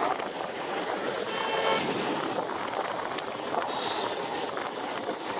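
Road and wind noise of a ride in traffic, with a short vehicle horn toot about a second and a half in.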